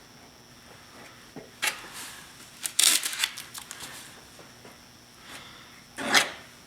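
Fibreglass body filler being worked with a spreader: short scrapes and knocks, with a loud cluster about three seconds in and another sharp scrape about six seconds in.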